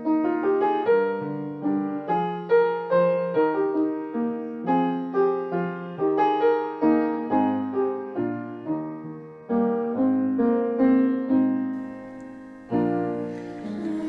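Solo piano playing a gentle introduction, a steady run of struck notes and chords that ring and fade; singing begins right at the end.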